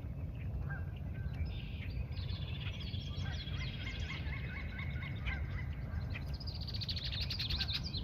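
Several wild birds calling and singing at once, with short chirps and whistles throughout and a rapid trill of quick notes near the end, over a steady low rumble.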